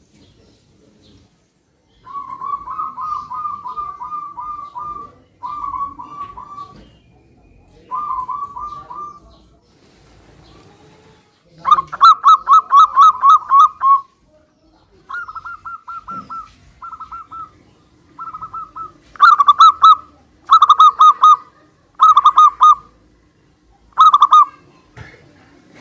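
Zebra doves cooing: a run of rapidly trilled phrases a second or two long, some faint and some much louder, as birds answer one another.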